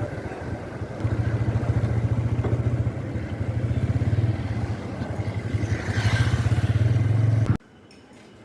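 An engine running with a low, pulsing rumble, cut off abruptly near the end.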